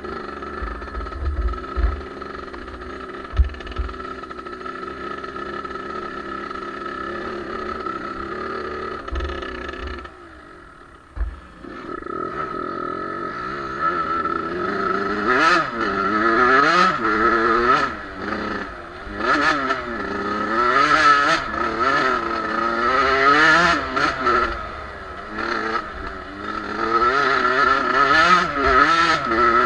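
Suzuki two-stroke motocross bike being ridden off-road: the engine runs at a fairly steady throttle for about ten seconds, drops off briefly, then revs up and down again and again in quick sweeps through the second half. A few low thumps sound in the first few seconds.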